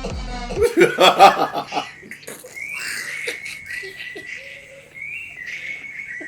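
A burst of laughter lasting about a second, followed by a thin, high, steady tone held for several seconds with short breaks.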